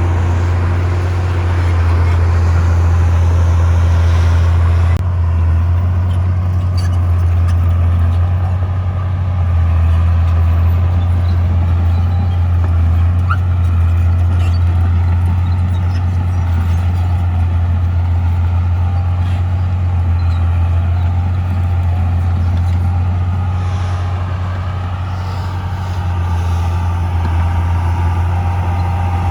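Heavy diesel engine of earthmoving machinery running steadily under load, a deep continuous drone; the higher part of the sound drops off suddenly about five seconds in.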